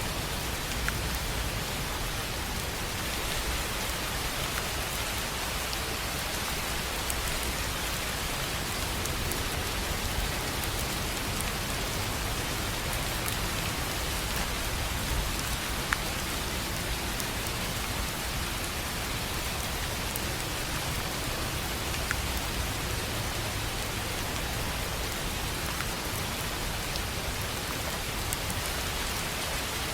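Steady rain falling on a tin roof: an even wash of patter with a few louder single drop hits now and then.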